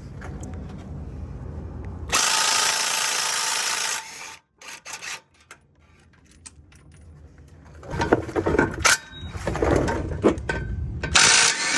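Power tool running in a burst of about two seconds, then after a pause irregular clanks and rattles of tools on metal, and a second power-tool burst near the end.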